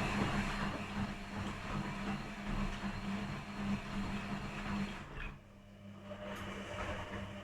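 Washing machines running the wash phase of a quick programme: a steady motor hum with the drum tumbling a wet blanket load. The rushing sound eases briefly about five seconds in, then the drum picks up again.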